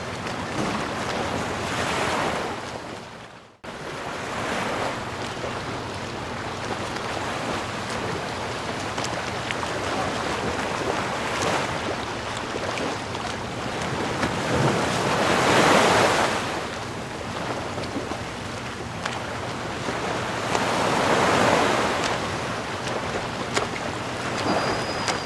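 Sea waves surging onto a shore: a steady wash of surf that swells and recedes slowly, with the bigger waves breaking about midway and again later. About three seconds in, the sound fades out and drops away for a moment, then comes back abruptly.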